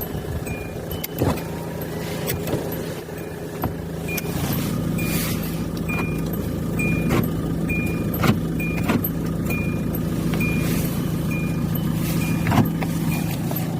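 Hyundai Santa Fe's engine idling steadily, its hum growing a little stronger about four seconds in. A short high warning beep repeats about once a second, with scattered clicks and knocks.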